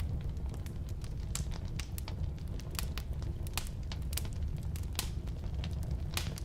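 Firewood burning in a fireplace or wood stove: irregular crackles and pops of varying strength over a steady low rumble of the flames.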